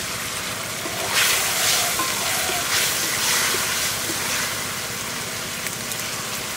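Taro-stem and hilsa-head curry sizzling in a metal wok, with louder swells of frying as it is stirred and turned with a wooden spatula.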